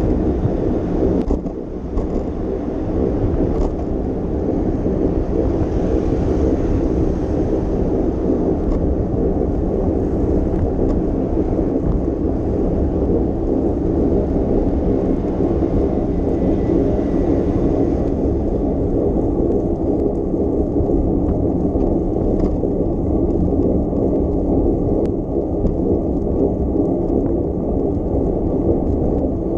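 Steady low rumble of wind buffeting the microphone on a moving bicycle, mixed with road noise, dipping briefly about two seconds in.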